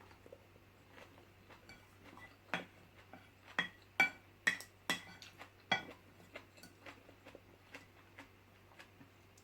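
Spoon clinking against a bowl during a meal: a run of sharp, ringing clinks in the middle, with fainter taps before and after.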